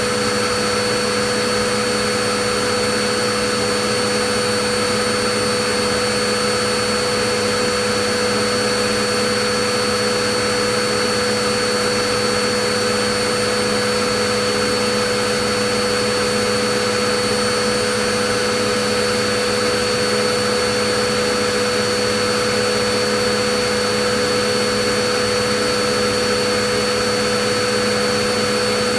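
Vacuum cleaner running steadily: an even rush of air with a motor whine held at several steady pitches, unchanging throughout.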